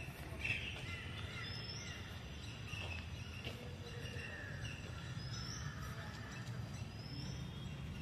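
Birds calling, with one short rising chirp repeated every two or three seconds among other brief calls, over a steady low rumble and a few light knocks.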